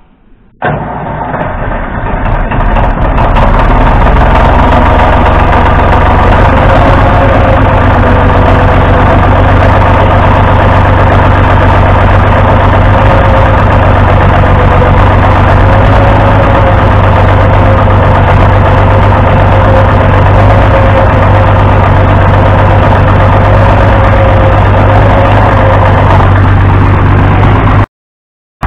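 Farmall 560 tractor engine starting about half a second in, building up over the next few seconds, then running steadily at idle. It cuts off abruptly near the end.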